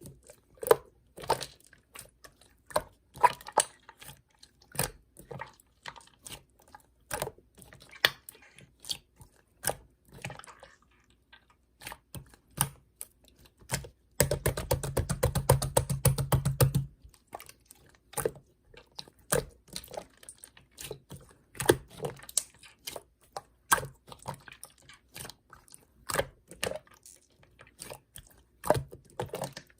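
Slime being squished and poked by hand, making irregular sticky clicks and pops. About halfway through, a few seconds of rapid, continuous crackling.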